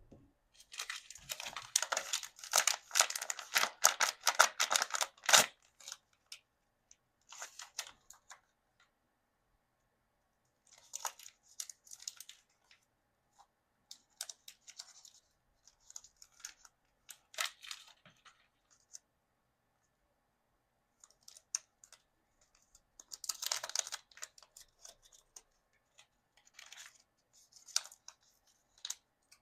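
Small plastic toy packaging being crinkled and torn open by hand. The loudest part is a dense stretch of rustling and tearing from about one to five seconds in, followed by shorter bursts of crinkling every few seconds.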